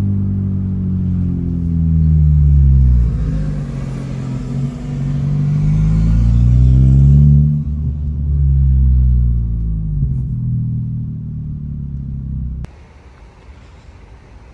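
Honda Civic Type R (FL5) turbocharged 2.0-litre four-cylinder running through an AWE Track exhaust under acceleration, its revs rising and falling several times through the gears. Near the end the engine sound cuts off suddenly to a much quieter background.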